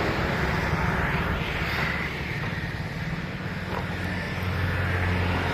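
Diesel tractor engine running steadily at idle.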